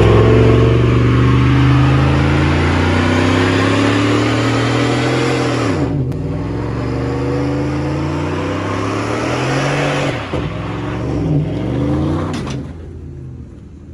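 A car or truck engine accelerating hard, its pitch climbing, dropping sharply about six seconds in, then climbing again, as it pulls up through the gears. The engine note breaks up around ten seconds in and fades away near the end as the vehicle drives off.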